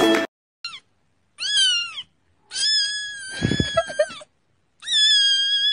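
Grey tabby kitten meowing: a short chirp, then three long high-pitched meows with brief gaps between them. The first rises and falls, and the last is still going at the end.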